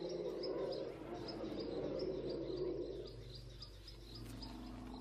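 Outdoor wildlife ambience: a high chirp repeating evenly about four times a second. Under it runs a lower, rumbling sound that fades after about three seconds.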